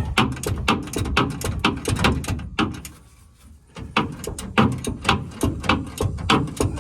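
Ratchet wrench clicking rapidly, about four clicks a second, as it is swung back and forth to back off a rusted nut on the spare tire winch. The clicking pauses for about a second midway, then resumes.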